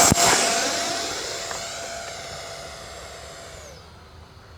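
Electric ducted-fan jet running at full power just after a hand launch, a steady high whine that fades as the model flies away. A couple of brief knocks come at the very start, and the whine drops in pitch near the end.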